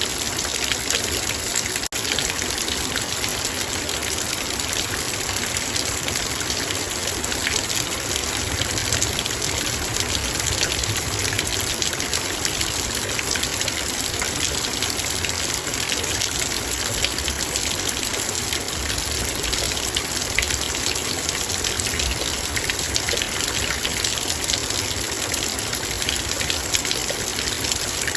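Heavy rain falling on a metal bowl: a steady, dense patter of drops, with many small sharp ticks as they hit the metal.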